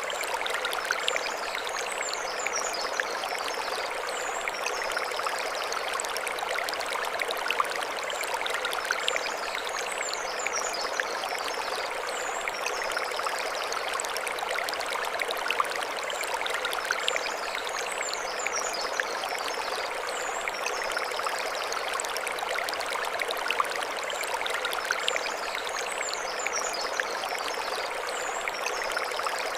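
Mountain stream flowing over stones: a steady rush and trickle of water. Short high warbling phrases recur over it about every eight seconds.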